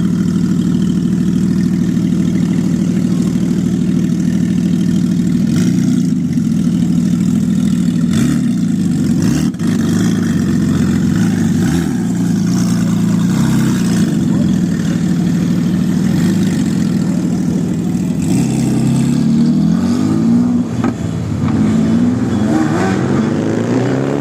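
Porsche GT3 RS's naturally aspirated flat-six running steadily, then revved again and again from about five seconds in, the engine note climbing and falling with each throttle blip, with a quick run of revs near the end.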